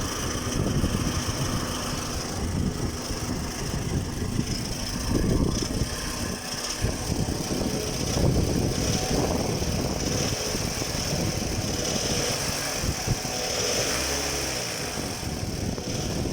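Toyota 1AZ-FE four-cylinder engine running with a rattle, which the owner puts down to a knocking flywheel.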